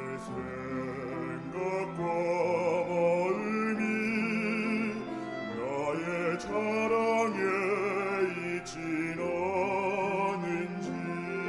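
Church choir singing a hymn with instrumental accompaniment, the voices held with vibrato.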